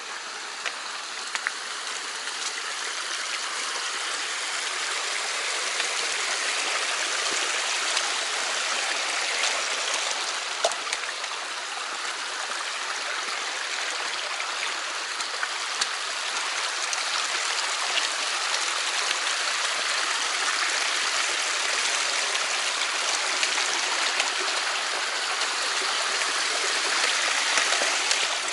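Mountain stream rushing steadily over rocks, with a few faint sharp ticks.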